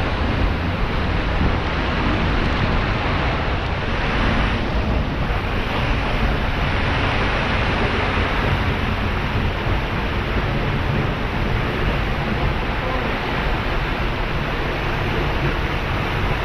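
Seljalandsfoss waterfall: the loud, steady rush of water falling into its pool.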